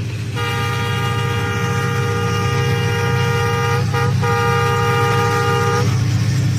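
Train horn sounding one long blast of about five seconds, with a short break about four seconds in, over a steady low rumble.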